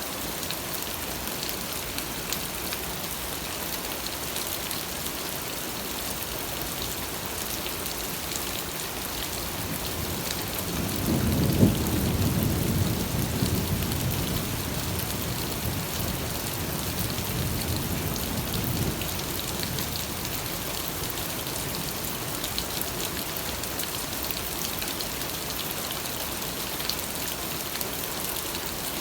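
Steady rain falling, with a roll of thunder that rumbles up about a third of the way in and dies away several seconds later.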